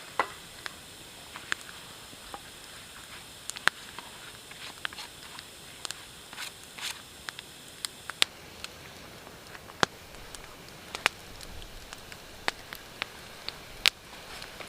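Wood fire crackling: irregular sharp pops and snaps, a few of them louder, over a steady faint hiss.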